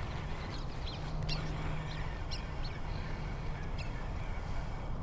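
Birds calling in a series of short, high chirps scattered through the first four seconds, over a steady low rumble.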